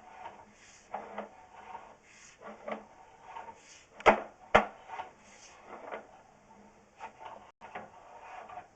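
Sewer inspection camera's push cable rubbing and knocking in a pipe as it is fed down a vent line: irregular scraping and bumping, with two sharp knocks a half second apart about four seconds in.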